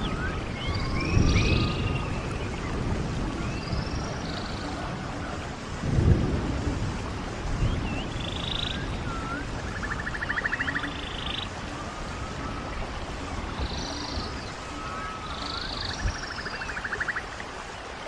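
Stream water running steadily, with birds giving short, high calls over it again and again. Twice, about ten seconds in and near the end, comes a buzzy pulsed trill. There are low surges in the water sound about one and six seconds in.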